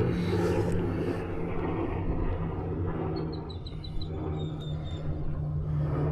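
Steady low engine hum with a short run of high chirps about three seconds in.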